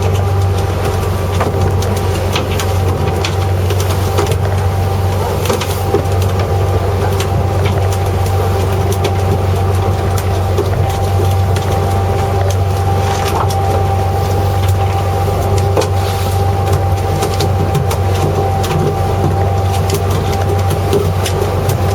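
A fishing boat's engine running steadily with a low drone, with scattered clicks and knocks on board throughout.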